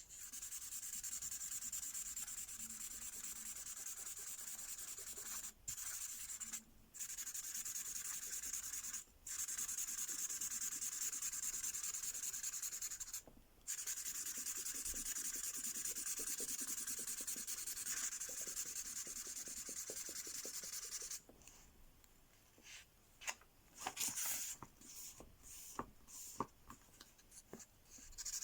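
An LOL Surprise Mystery Ink pen colouring on paper, a steady scratchy rubbing of quick back-and-forth strokes with a few short breaks. It stops about three-quarters of the way through, and light clicks and paper rustles follow.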